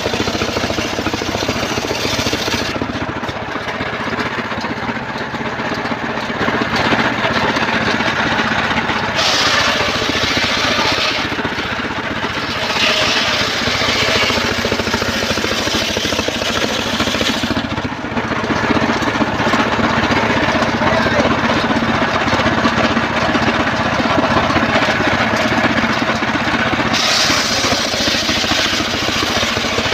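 Homemade engine-driven circular sawmill running steadily while sawing trembesi (rain tree) logs, its high sawing hiss swelling and fading every few seconds over the constant drone of the engine.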